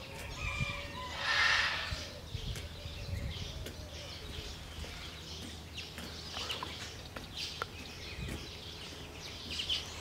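Birds calling and chirping now and then, with a brief loud rush of noise about a second in.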